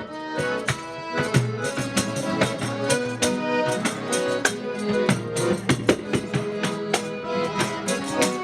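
Live folk band playing an instrumental passage: an accordion carries the melody in held notes over a steady beat of sharp percussion hits.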